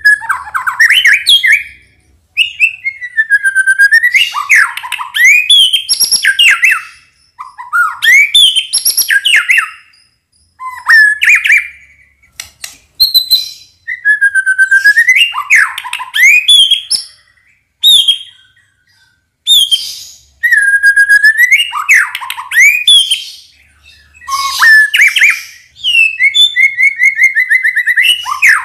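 White-rumped shama (murai batu) singing: a string of loud, varied whistled phrases, each a second or two long with short pauses between, some sweeping in pitch and some made of fast repeated notes.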